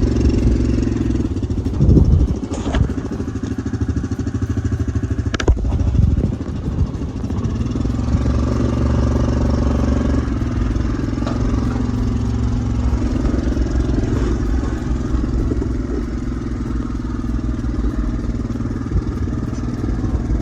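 A boat's outboard motor running steadily, with its pitch shifting a little. Two sharp knocks come about two seconds and five and a half seconds in.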